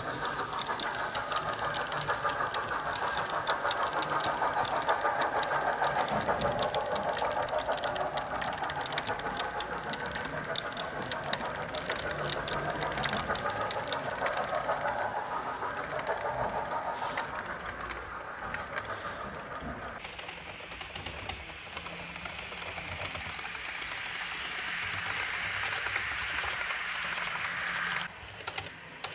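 Model trains running on a layout, with many fine rapid clicks and a mechanical hum, under a background of people talking. The sound changes abruptly twice, about two-thirds of the way through and near the end.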